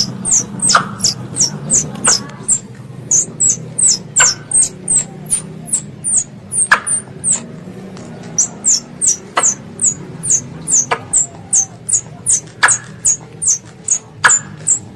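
A young squirrel's call: a fast series of short, very high-pitched chirps, each sliding down, about three a second in runs with brief pauses, with sharp clicks every second or two.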